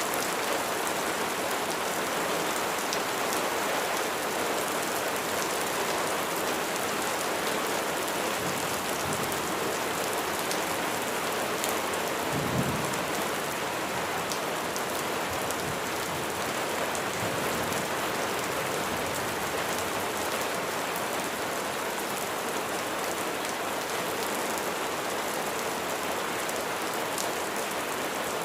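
Steady rain falling, a continuous hiss with scattered drop ticks. A brief low thump sounds about halfway through.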